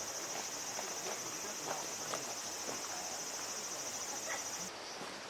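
Insect calling in a steady, fast, high-pitched trill that cuts off suddenly near the end, with faint scattered knocks and clicks underneath.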